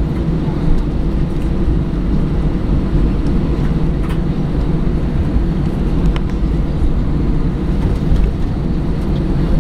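Airbus A318 jet heard from inside the passenger cabin: a steady, loud low rumble of the engines and the aircraft moving on the ground, with a few faint rattles.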